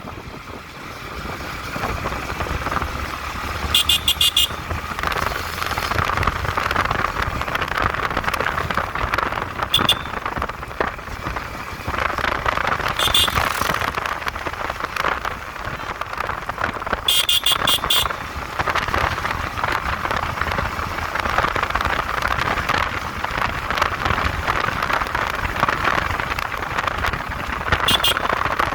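Yamaha MT-15 motorcycle ridden at speed: a steady rush of wind and engine noise, with short horn beeps sounding several times, about 4, 10, 13, 17 and 28 seconds in.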